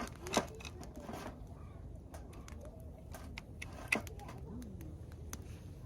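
Wood fire crackling: irregular sharp pops and snaps, the loudest just after the start and about four seconds in, over a steady low rumble.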